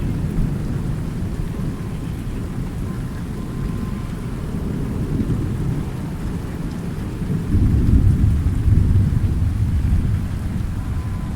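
Thunder rumbling over steady rain. The rumble swells to its loudest about two-thirds of the way through, then eases off.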